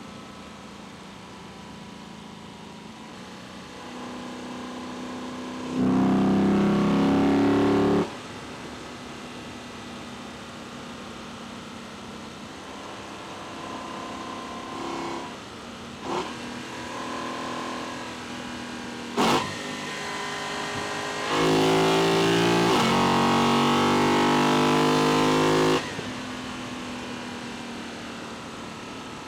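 Lexus LC 500's 2UR-GSE V8 induction noise picked up in the engine bay: a low steady drone while cruising, broken twice by hard acceleration with the revs climbing. The first pull lasts about two seconds; the second, later, runs about four seconds with a brief dip in pitch at a gear change. A single sharp click sounds between the two pulls.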